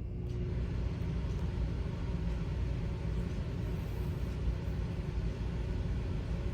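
A steady low mechanical rumble, like an engine running, that comes on abruptly at the start.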